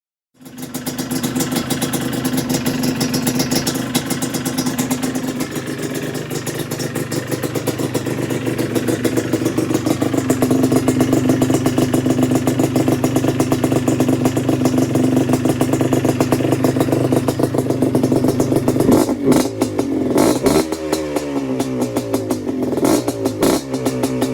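Yamaha Blaster's single-cylinder two-stroke engine running through an aftermarket expansion-chamber pipe and silencer, holding a steady fast idle. From about 19 seconds in it is blipped several times, its pitch rising and falling.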